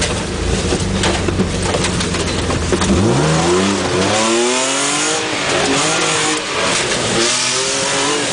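A car engine heard from inside the cabin while the car is driven hard over a muddy course. For the first three seconds it runs low and steady, with scattered sharp knocks; then it rises in pitch again and again, about once a second, as it is revved up repeatedly.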